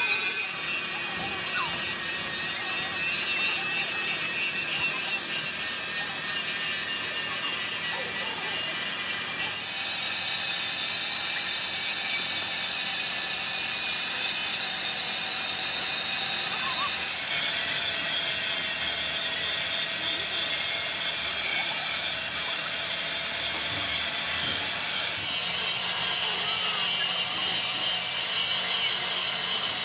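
Steady abrasive grinding or sanding on the truck's sheet-metal body, a continuous rasping hiss. Its pitch and texture change abruptly about a third of the way in, again past halfway, and once more near the end.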